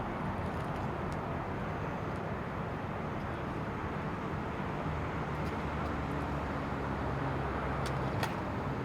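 A vehicle engine idling steadily with a low hum, with a couple of short clicks near the end.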